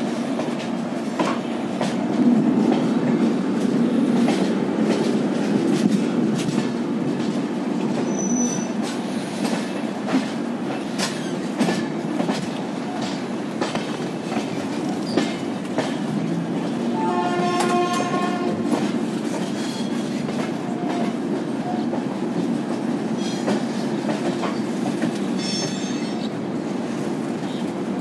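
Rajdhani Express coaches rolling slowly over the track through a station yard, heard from the open coach door: a steady rumble with wheels clicking over rail joints and points. A train horn sounds once for about a second about two-thirds of the way in, and there is a brief high wheel squeal near the end.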